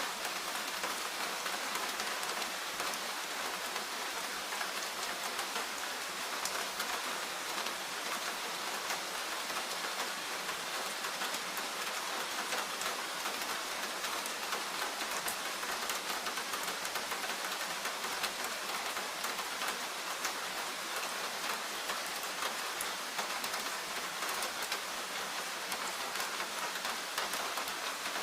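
Steady rain falling in a forest: an even hiss dotted with countless small, sharp drop ticks, with no change in strength.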